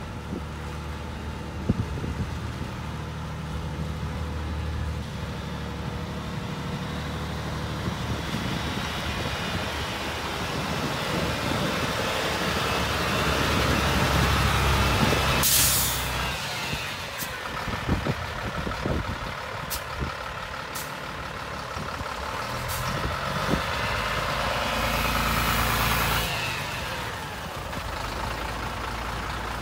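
Scania 92M truck's diesel engine running, growing louder towards the middle. A short sharp burst of compressed-air hiss comes about halfway through, then a few clicks, and a longer air hiss near the end.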